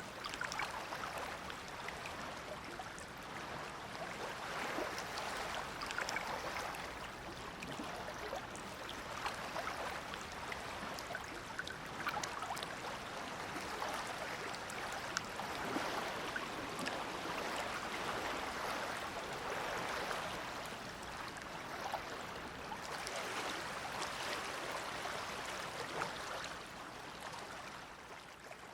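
Small Dead Sea waves lapping and splashing at the shoreline: a steady wash of water that swells every few seconds, with little crisp splashes, fading out at the very end.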